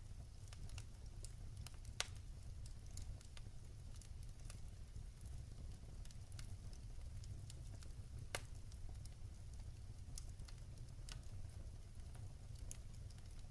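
Firewood burning in a fireplace: a steady low rumble with scattered small crackles, and two sharper pops, about two seconds in and about eight seconds in.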